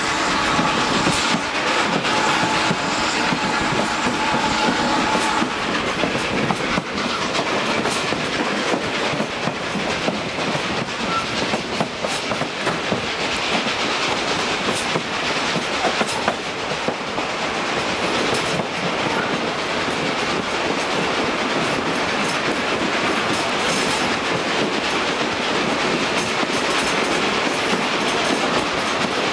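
Western Maryland Railroad train hauled by steam locomotive 734 running along the track. The cars rumble and rattle steadily, with repeated clicks of wheels over the rail joints. A faint high tone sounds for the first five seconds or so.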